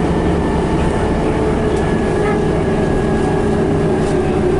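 A Scania BR111H bus's diesel engine and drivetrain running on the move, a steady rumble with a whine that slowly falls in pitch as the bus eases off.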